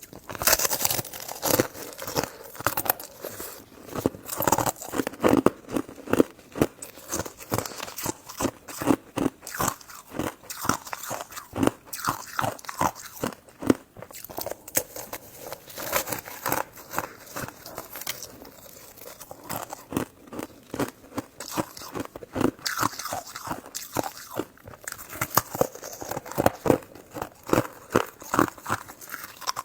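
A person biting and chewing food close to the microphone, a dense, irregular run of quick clicks and smacks.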